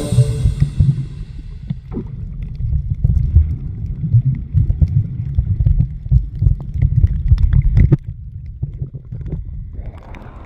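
Muffled water movement recorded underwater while snorkeling: a churning low rumble with scattered small clicks. A piece of music fades out in the first second or two, and the rumble eases about eight seconds in.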